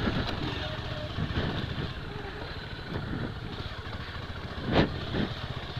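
Bajaj Pulsar 200 single-cylinder motorcycle engine running at low speed with a steady rumble, with a brief louder burst about five seconds in.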